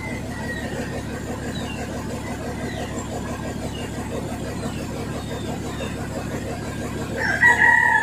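A steady low hum, then a loud, long, level bird call rising out of it near the end.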